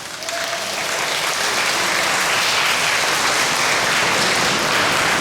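Crowd applauding, building up over about the first second and then holding steady.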